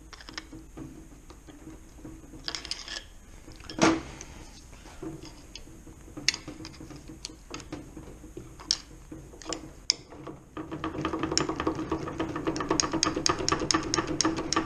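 Steel hand tools and gearbox parts clinking and knocking as a gear is levered off the shaft of a stripped-down gearbox, with one sharp knock about four seconds in. From about ten seconds in, a fast, even metallic ticking rattle sets in and keeps going.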